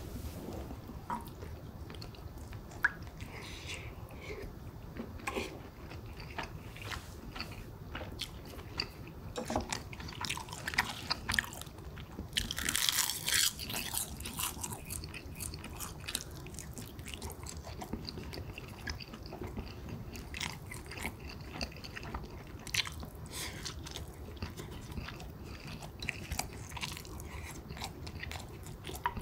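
Close-up sounds of a person eating pork kimchi stew with rice: chewing and wet mouth sounds, with many short sharp clicks. About halfway there is a longer, louder noisy stretch.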